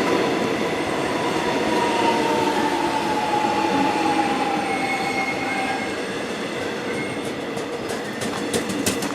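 A train running on the rails through a station, a steady rumble of wheels on track with a high wheel squeal that slides slightly lower and fades out about six seconds in. A few sharp clicks follow near the end.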